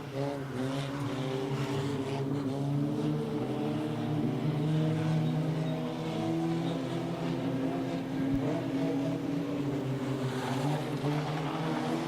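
Junkyard race cars' engines running laps on an oval track, a steady drone with pitches that drift slowly up and down as the cars go round.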